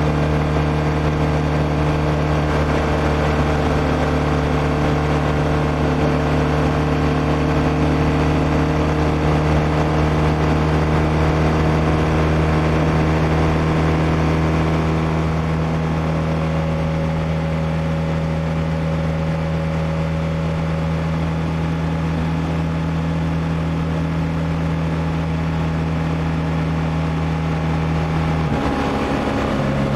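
BMW R1200R's liquid-cooled boxer twin engine running at a steady cruising speed under way, with a steady note for most of the time. Near the end the engine note changes abruptly.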